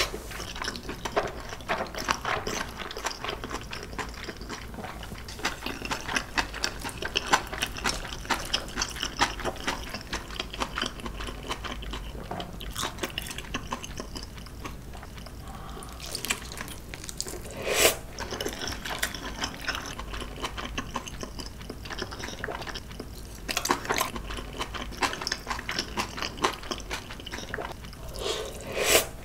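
Close-miked chewing of king dumplings and cabbage kimchi: wet mouth sounds full of small clicks and smacks. There are a few louder bites, one about two-thirds through and one near the end.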